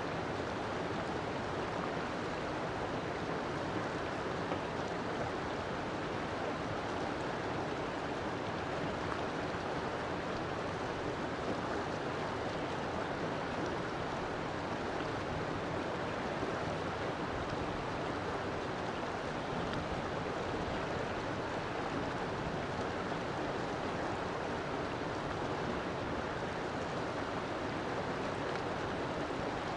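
River water flowing steadily over rocks, an even rushing that does not change.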